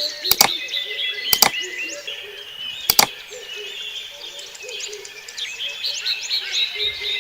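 A chorus of small birds chirping and whistling, many quick calls overlapping. Three sharp double clicks cut through it in the first three seconds.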